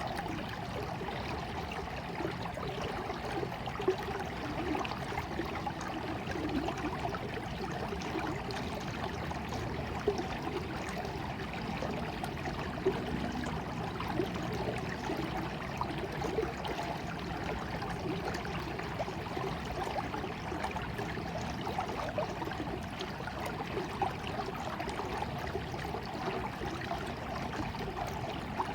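Small stream of water trickling and babbling steadily, with a few brief louder splashes.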